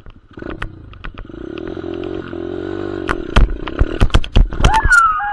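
Small dirt bike engine revving up as it accelerates hard, its pitch climbing, with loud knocks and thumps from about three seconds in. A rider's whoop starts near the end.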